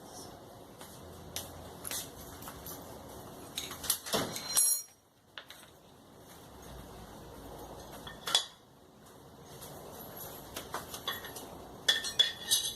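Metal parts and tools clinking and knocking as they are handled, with one ringing metallic clang about four and a half seconds in and a quick run of clinks near the end.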